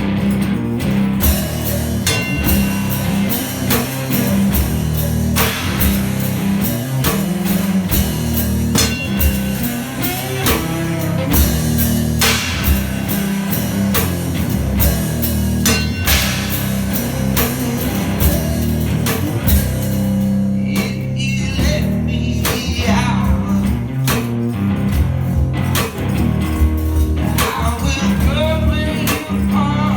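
A live blues-rock song from a one-man band: guitar over a steady beat of kick drum and cymbal hits, with a singing voice in places.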